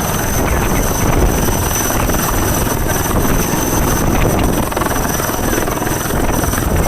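Helicopter running loud and close, its rotor noise steady, with a high-pitched whine held over it.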